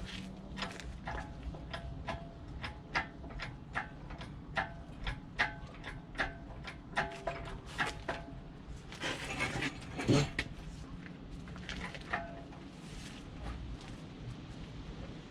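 A run of short, irregular clicks, roughly two or three a second, each with a brief ringing tone, and a louder noisy clatter about nine to ten seconds in.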